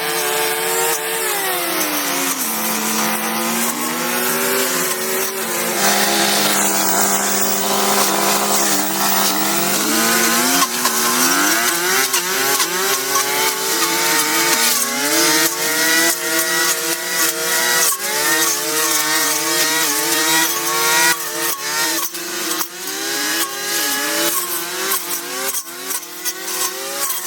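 Small petrol-engined cutting tool, such as a chainsaw, revving up and down. Its engine settles at a steady lower speed for several seconds, then revs repeatedly again, with a run of crackling clicks near the end.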